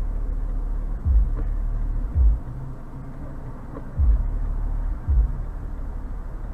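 Low, steady rumble of a moving vehicle, with dull low thumps every second or two.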